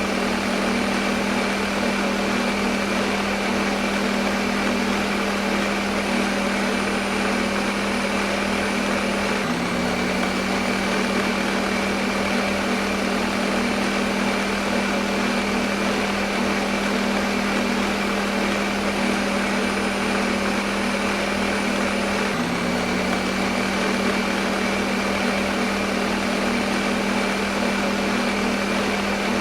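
Electric blender motor running continuously: a steady whirring hum over even hiss, with a brief catch in the hum about ten seconds in and again about twenty-two seconds in.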